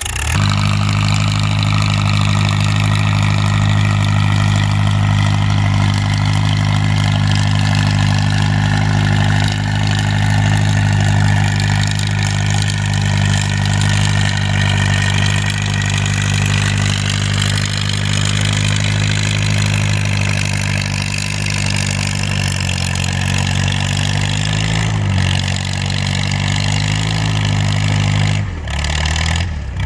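Farm tractor engine working hard under load while pulling a weight-transfer sled, a steady deep note held for most of half a minute. The note wavers about three-quarters of the way through and then drops away near the end.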